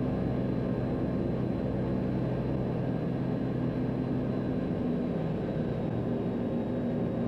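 Cessna 182's six-cylinder piston engine and propeller droning steadily in flight, an even, unchanging cabin drone.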